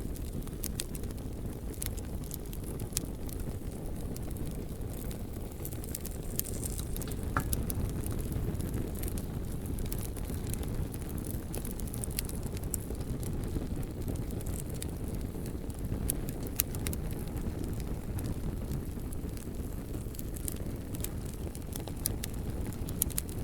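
Campfire crackling, with scattered sharp pops and snaps of burning wood over a steady low rumble.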